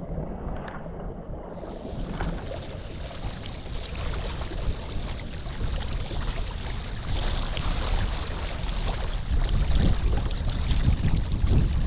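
Gusty wind buffeting the microphone over water rushing past a small sailboat's hull; the gusts grow stronger in the second half.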